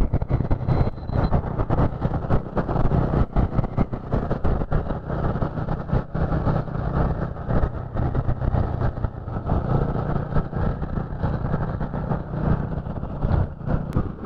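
Motorcycle engine running steadily at cruising speed while riding along a highway, with road and traffic noise.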